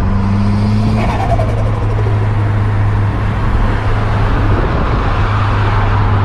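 Nissan Silvia S15's turbocharged SR20DET four-cylinder running with a steady, even drone. A brief falling sound comes about a second in.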